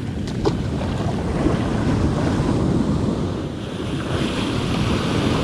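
Ocean surf washing and breaking on the beach, with wind buffeting the microphone. A couple of light clicks about half a second in.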